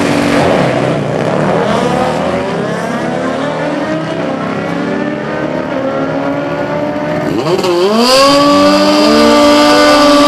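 Drag-racing motorcycle engines at full throttle. One fades off with falling pitch at the start. About eight seconds in, another revs up sharply and holds a high, steady note.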